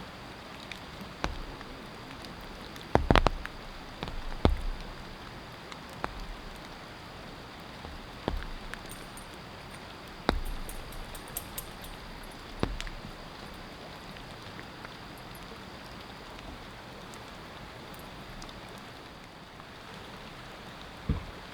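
Steady rain falling, with a few louder drips or taps striking a surface here and there, the loudest about three seconds in.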